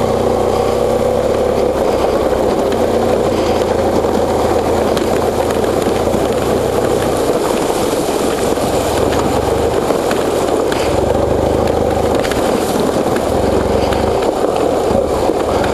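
Motorcycle engine running steadily at low speed through a shallow water crossing, heard from a helmet-mounted camera.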